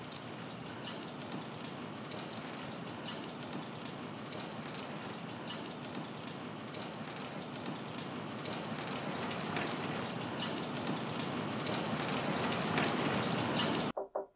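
Steady rain with scattered drops ticking, slowly growing louder, then cutting off suddenly near the end.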